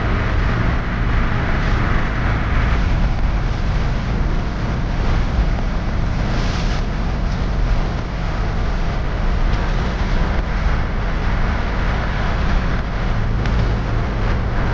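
Steady rumbling noise of a vehicle in motion, with road and wind noise and no distinct events.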